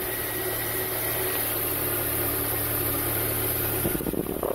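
Honda Accord engine idling steadily, heard from underneath the car. About four seconds in there is a brief burst of scuffing and knocks.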